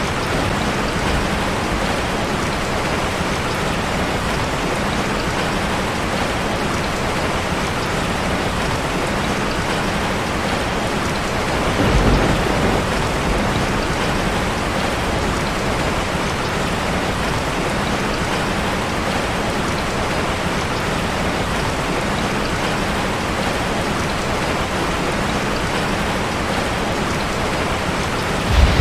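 Steady rain drumming on a metal roof, with a brief low rumble about twelve seconds in.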